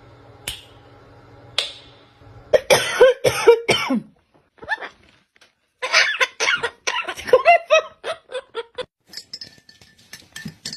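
A parrot making a run of short vocal sounds that slide in pitch, in two bursts, one about two and a half seconds in and a longer one from about six seconds. A couple of sharp clicks come before them.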